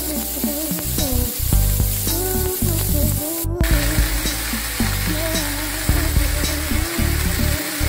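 Pork and green peppers sizzling as they stir-fry in a frying pan. The sizzle cuts out briefly about three and a half seconds in, then goes on with chopped cabbage frying in the pan. Background music plays over it.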